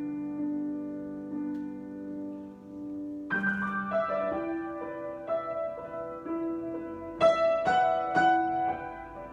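Solo improvised piano: a held chord rings, a new chord is struck about three seconds in, then single melody notes follow over the sustained harmony, the loudest about seven seconds in.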